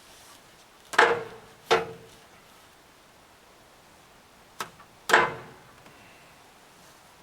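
Three loud metal clanks, one about a second in, another just under a second later and a third near five seconds in, each with a brief ring; a faint tap comes just before the last one.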